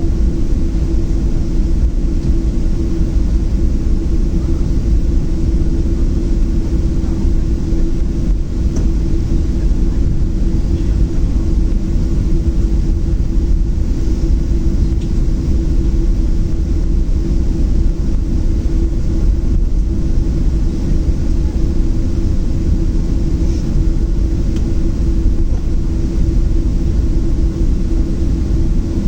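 Steady cabin rumble inside a Boeing 737-700 with its CFM56 engines at idle, with a constant mid-pitched hum over the low drone.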